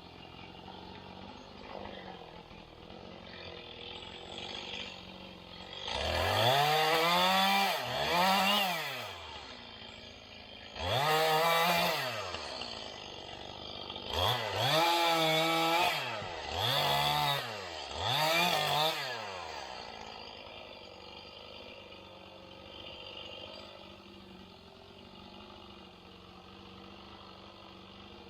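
Chainsaw revved in six short bursts, its pitch climbing and falling each time, with an engine running low and steady before and after.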